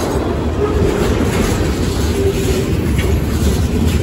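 Freight train cars, tank cars and boxcars, rolling past at close range: a steady, loud rumble of steel wheels on rail, with scattered clacks as the wheels cross rail joints.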